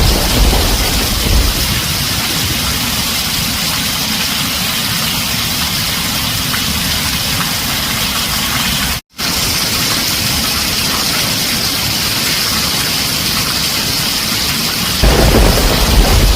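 Heavy rain drumming on a tin roof, a steady dense hiss. A low thunder rumble dies away in the first second or so, and another swells up about a second before the end. There is a split-second gap of silence about nine seconds in.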